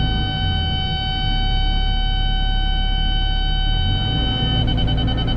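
Electronic tone from the Cat 313 excavator's grade-control system in the cab: a steady beep held for about four and a half seconds, then breaking into rapid beeps near the end, as the operator sets a benchmark. The excavator's diesel engine runs steadily underneath.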